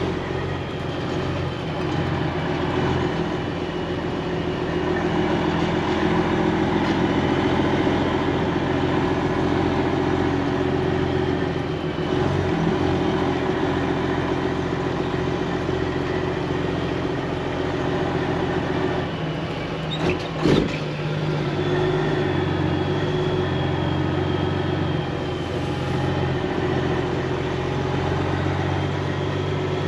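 Semi-truck diesel engine running steadily while the rig drives slowly, its engine note stepping in pitch a few times. Two short sharp knocks about twenty seconds in.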